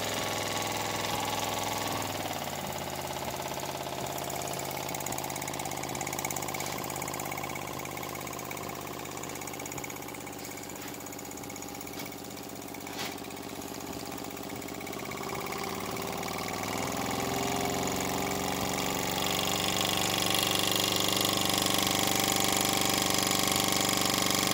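Small model wobbler (oscillating-cylinder) steam engine running on steam, running smoothly. Its speed dips about two seconds in and picks up again over the last third, getting louder, with a single small click about halfway through.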